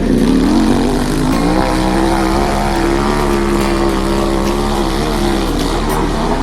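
Dirt bike engine revving hard. The pitch climbs about a second and a half in, is held high and steady for several seconds, then drops near the end.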